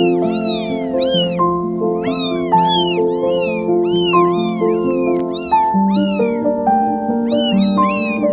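Kittens meowing over and over, high-pitched calls that rise and fall, several a second and overlapping, over background music of steady held notes.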